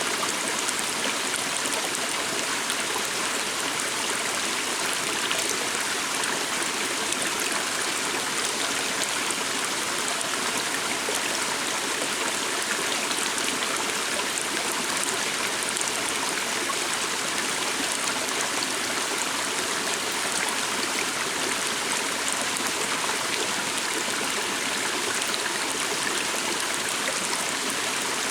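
Calm stream of water flowing steadily: an even, continuous rush of running water.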